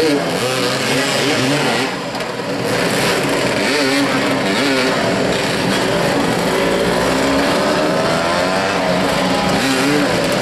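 Motoball motorcycle engines revving up and down repeatedly, their pitch rising and falling as the riders accelerate and brake.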